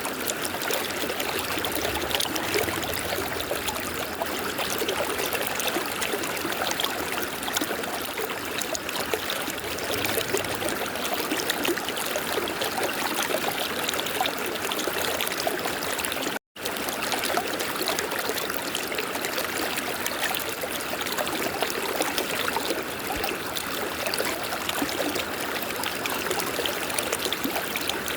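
River water flowing steadily, a continuous rushing and trickling. It cuts out for a split second about halfway, then resumes unchanged.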